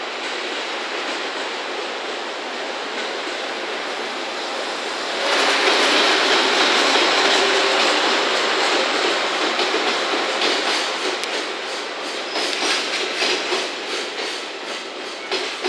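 JR Freight EF210 electric locomotive running past, its noise rising sharply about five seconds in as it comes alongside. Container wagons then rattle past with a rapid clickety-clack of wheels over the rail joints that grows more distinct toward the end.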